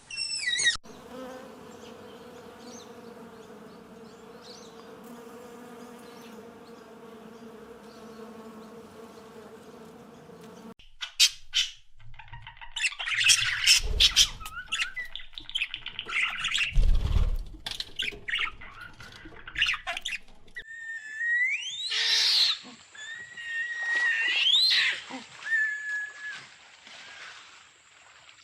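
A run of animal sounds: a steady, even drone for about ten seconds, then scratchy clicking with a few low thumps, then bird calls with whistled notes that rise and fall.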